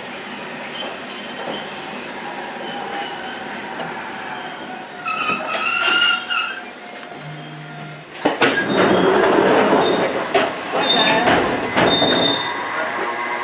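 Toyama Chiho Railway 14760-series electric train running on the rails with wheel squeal. It grows louder about eight seconds in, with clatter and squealing over the running noise.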